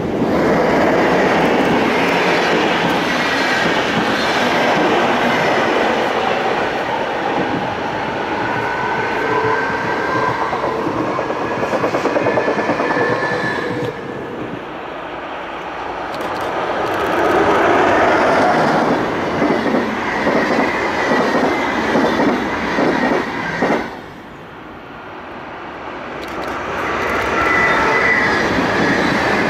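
Trains running on steel wheels through a station throat: high wheel squeal with shifting tones, then a run of rapid clickety-clack over rail joints and points. The sound falls away suddenly about two-thirds of the way in, then builds again as a passenger train of SBB coaches passes close, its wheels squealing.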